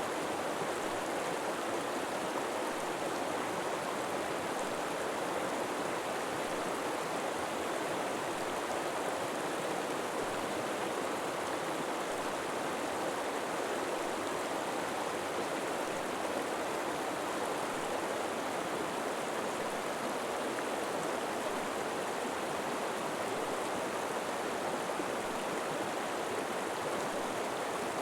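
River water flowing steadily over rocks, a constant rushing babble.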